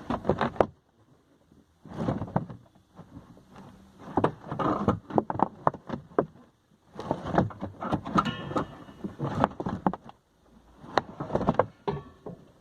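Bursts of metal knocking, scraping and rattling as the heavy CNG cylinder in a car's trunk is shoved along in its mounting bracket, with a few brief metallic rings.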